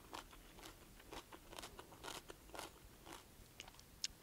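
Faint chewing of a mouthful of kohlrabi-noodle stir-fry with carrots and bean sprouts, soft crunches about twice a second.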